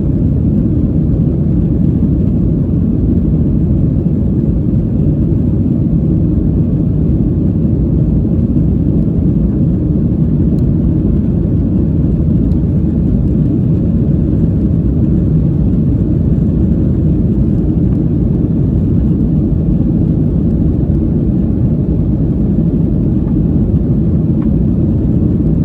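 Airliner cabin noise after takeoff: the jet engines and airflow make a steady low rumble with no change in level.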